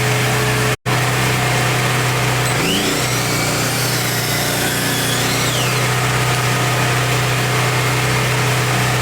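Delta Cruzer miter saw's motor running with a steady hum, broken once by a sudden, very short gap a little under a second in.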